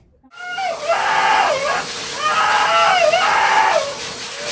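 A dog howling and screaming in repeated long wails that rise and fall, over the steady hiss and hum of two running pet blow dryers. It starts suddenly after a brief silence.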